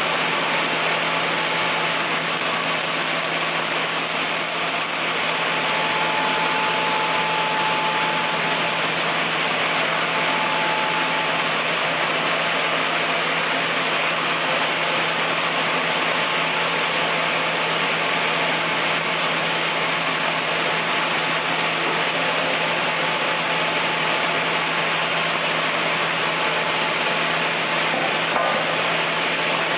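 Engine of a wood-milling saw running steadily, with a constant low hum and one faint click near the end.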